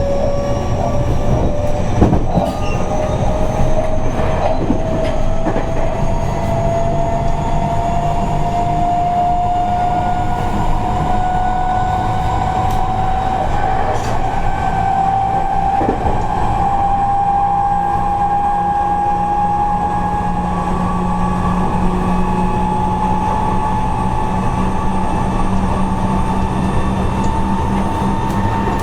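Seibu 30000 series electric train running, heard from inside the car. Its traction motors give a whine that rises slowly and steadily in pitch as the train gathers speed, over the rumble of the wheels on the track, with a few sharp knocks from the rails.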